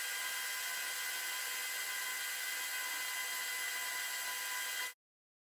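A steady, even hiss with a faint high whine in it, starting and cutting off abruptly after about five seconds.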